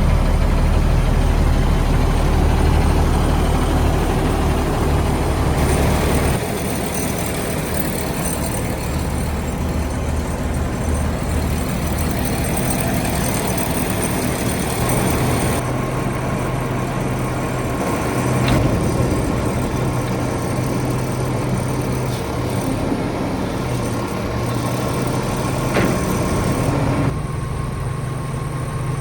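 Cummins ISL diesel engine of a front-load garbage truck running steadily. Its low note shifts about six seconds in, again around fifteen seconds in, and once more near the end.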